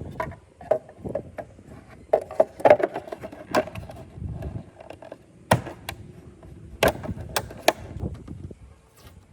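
Workshop handling noise: a run of irregular knocks and sharp clicks, a dozen or so. The loudest come between two and three seconds in and again around five and a half to eight seconds in.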